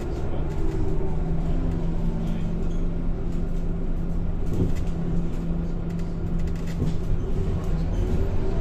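Scania K230 bus running, heard from on board: a steady pitched engine and drivetrain hum with road noise, and a couple of short knocks or rattles. Its pitch starts to rise near the end as the bus pulls harder.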